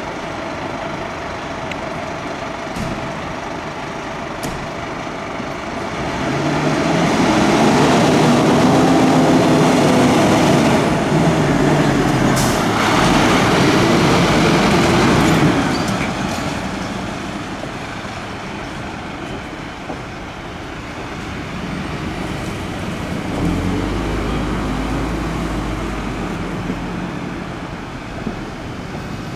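Heavy fire engine running and moving off. Its diesel engine and tyre noise build up about six seconds in, stay loud for about ten seconds, then fall away, and a lower engine rumble returns near the end.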